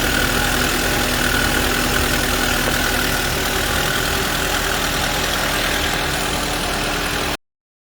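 Volkswagen Golf Touran engine idling steadily, its accessory belt turning; the sound cuts off suddenly near the end.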